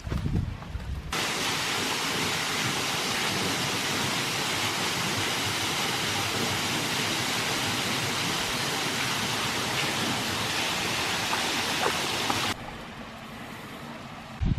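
Waterfall: a steady, even rush of falling water that starts abruptly about a second in and cuts off near the end.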